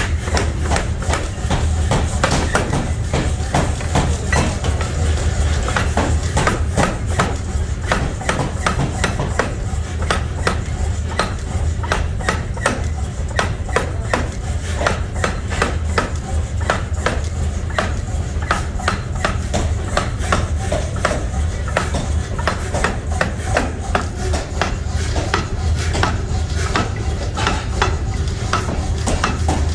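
Metalworking on steel nut parts: rapid, irregular clinks and taps of metal on metal, several a second, over a steady low machine hum.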